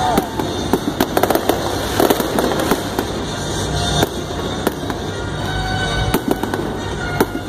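Aerial fireworks shells bursting over the stadium, a dense irregular string of bangs and crackles over a continuous rumble.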